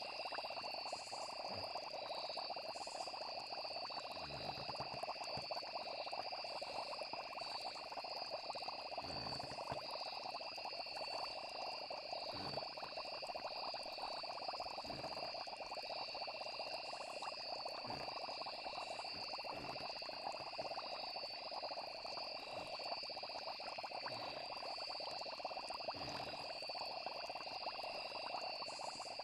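Night chorus of frogs and insects trilling steadily over a constant hiss, with soft low thuds or pops every second or two.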